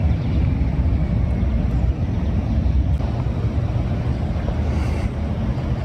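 A steady, low, noisy outdoor rumble with no clear tone or distinct events.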